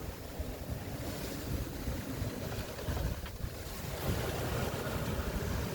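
Wind buffeting the microphone over waves washing around a sailboat in rough open ocean; a steady rushing noise that swells slightly near the end.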